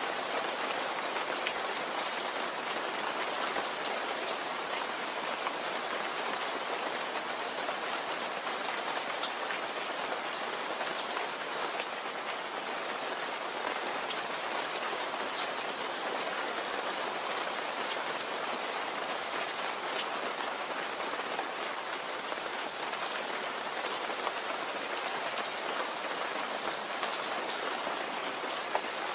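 Steady rain falling, an even hiss of rain with scattered individual drops ticking through it.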